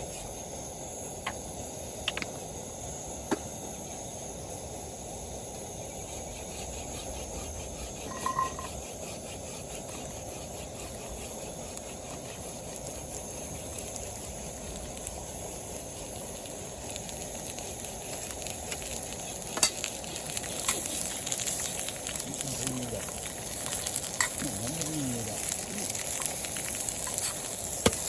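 Flour-dusted beef chunks sizzling as they brown in a hot pan, a steady frying hiss with scattered small pops and ticks that grow busier in the second half.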